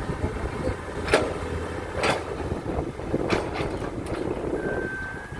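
Heavy diesel machinery rumbling, with several sharp metallic knocks and a brief steady high beep near the end.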